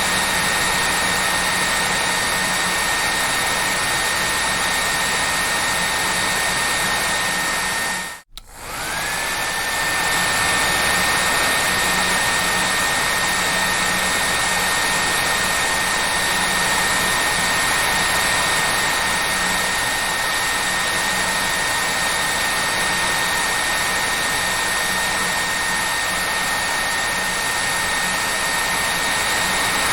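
Hair dryer running steadily: a loud rushing blow of air with a constant high motor whine. About eight seconds in, the sound drops out for a moment, then comes back with the whine rising quickly to its pitch.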